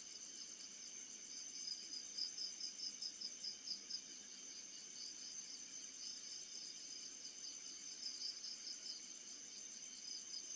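Insects chirping in rapid, high-pitched pulses, in two long runs, over a constant high-pitched tone.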